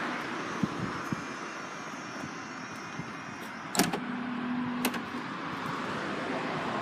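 Mercedes ML's electric tailgate working: a faint motor whine, then a sharp click about four seconds in, a short low buzz of about a second, and a second click as the latch closes.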